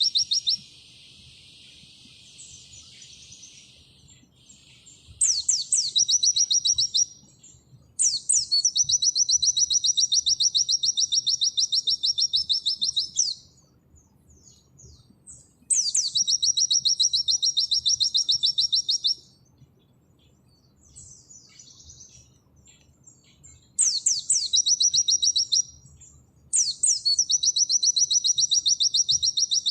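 Pleci (white-eye) singing its 'nembak' song: long, fast runs of evenly repeated high notes, each opened by a few quick rising sweeps, broken by short pauses with a few soft chirps. Five such runs come, the longest about five seconds.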